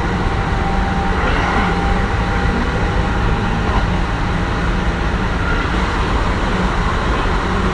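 Kintetsu 1420 series electric train with a Mitsubishi GTO-VVVF inverter, running between stations and heard from inside the car. A steady, loud rumble of wheels on rail carries a few faint motor and inverter tones.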